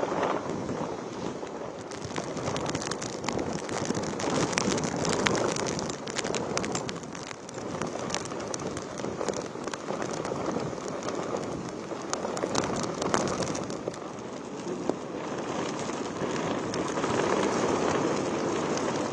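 Heavy cyclone rain with gusting wind, a steady rushing noise that swells and eases. Many small sharp ticks of drops run through it, densest in the middle.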